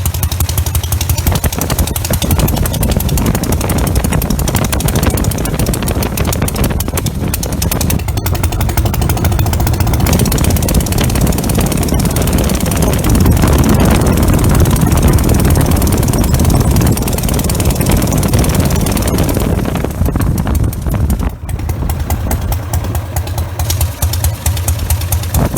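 Douglas 350 twin stationary engine running with a rapid, even beat as it spins a cut-down propeller. It grows a little louder through the middle, then drops back near the end.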